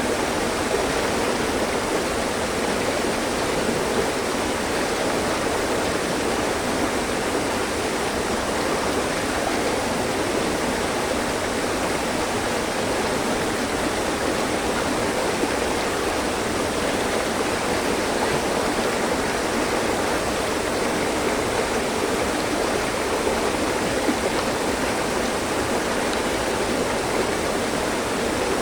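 Mountain stream: water rushing and splashing over rocks in a steady, even wash, with its weight in the lower middle range.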